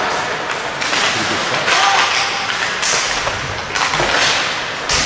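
Ice hockey game play in a rink: skate blades scraping the ice, with sticks and puck knocking and a sharp thud just before the end. Distant shouts from players or spectators.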